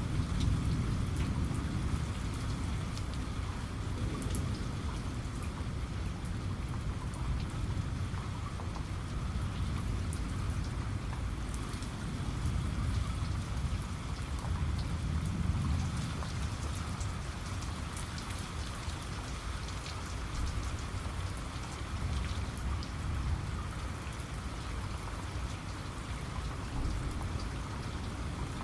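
Steady heavy rain, drops pattering on a surface, with a low rumble of thunder that swells about a second in and again around the middle.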